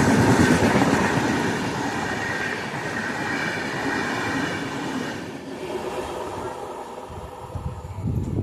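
Express train racing past on the next track at speed: the rush and rumble of its coaches and wheels, loudest at first and fading away over several seconds as the train goes by.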